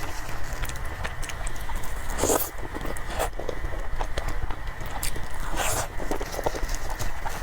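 Close-miked mukbang eating sounds: chewing and wet mouth clicks of someone eating soft cake, with two louder noisy sounds about two and six seconds in, over a steady low hum.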